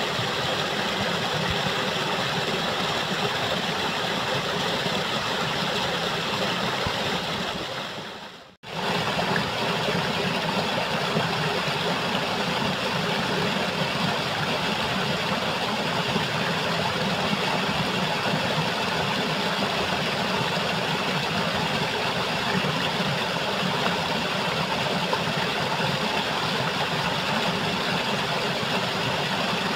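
Waterfall rushing: a steady, dense noise of falling water, which fades out and breaks off briefly about eight seconds in before starting again at the same level.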